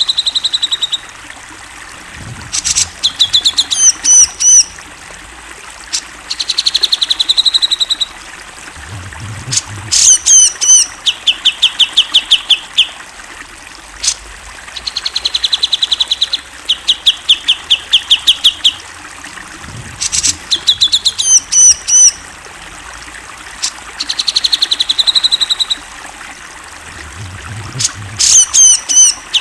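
Cucak jenggot (grey-cheeked bulbul) singing loudly in repeated phrases about every three to four seconds. Each phrase is a fast, even rattle of notes together with quick, curling, rising whistles.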